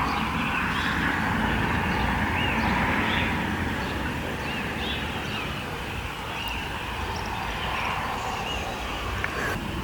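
Birds calling with short repeated chirps over a steady rushing outdoor noise, with a single sharp click near the end.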